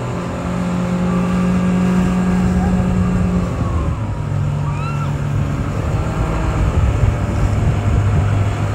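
A motor vehicle's engine running steadily, its hum stepping down in pitch about three and a half seconds in.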